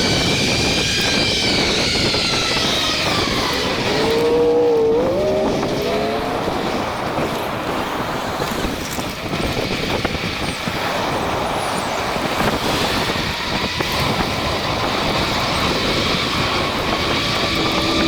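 Steady wind-and-tyre rush from riding an e-bike, with the whine of the Rad Rover's hub motor sliding down in pitch over the first few seconds, then rising sharply as it pulls again about four seconds in.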